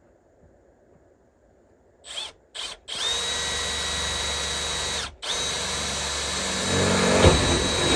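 Power drill boring a pilot hole through metal building siding: two short trigger blips about two seconds in, then a steady whine. It stops briefly around five seconds in, and the second run grows louder and rougher near the end as the bit goes right through.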